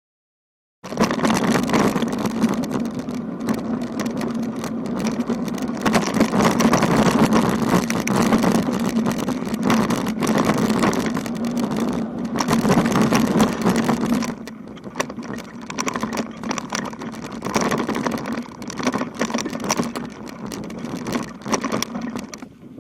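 Wind rushing over the microphone and road noise while riding a bicycle, with a steady low hum that drops away about 14 seconds in.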